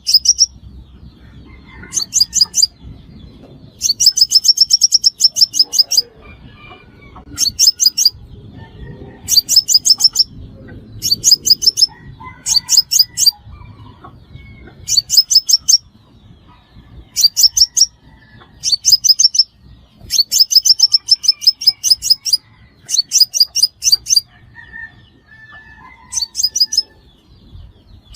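Sunbird song: about a dozen bursts of rapid, high, evenly repeated chipping notes, each burst from half a second to nearly two seconds long, coming every second or two.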